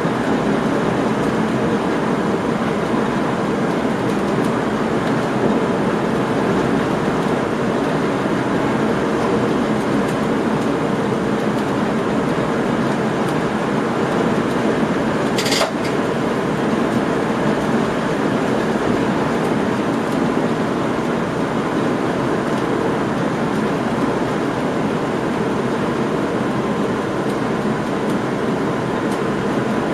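Steady running noise inside the cab of a moving passenger train: a constant rumble of wheels on rails and traction. There is one short, high click about halfway through.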